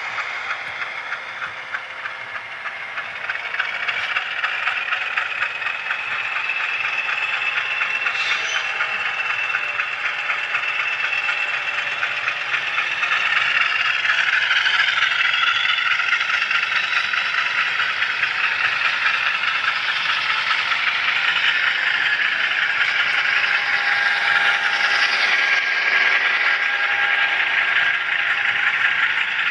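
HO scale model train wheels rattling and clicking along the rails in a dense, fast, steady patter, with a faint steady whine. It grows louder about four seconds in and again about halfway through.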